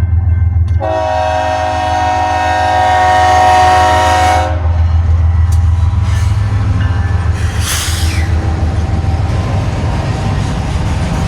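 Diesel locomotive's air horn sounding one long blast starting about a second in and lasting a few seconds, over the low rumble of the engine. After the horn stops, the train rolls by with steady wheel and rail noise.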